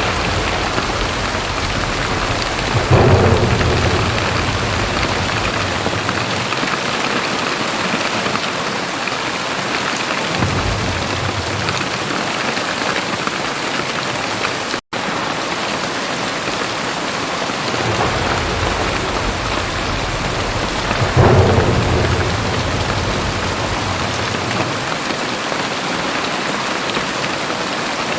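Very heavy rain pouring steadily, with two louder low rumbles, one about three seconds in and another about three-quarters of the way through. The sound cuts out for an instant about halfway.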